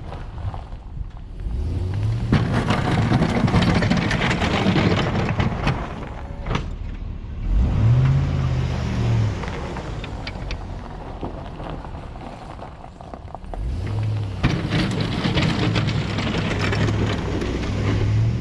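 Pickup truck engine revved hard three times in four-wheel drive, each time with a rushing, churning noise from tyres and snow. The truck is stuck, frozen in with its plow blade stuck to the ground.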